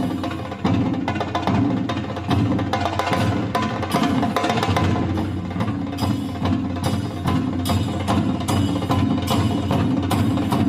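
Traditional Japanese percussion music, with fast, dense drum strikes and some pitched tones underneath.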